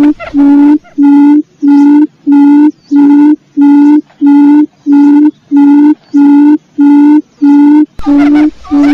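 Quail lure call: a steady series of short, low, even-pitched hooting notes, about two a second, repeated in a loop. Near the end a background hiss joins the calls.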